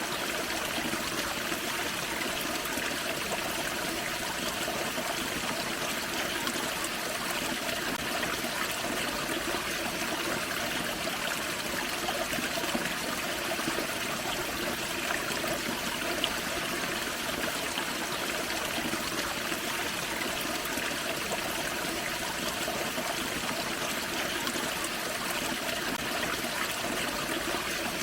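Small waterfall on a forest creek: water spilling and trickling over rocks in a steady, unbroken rush.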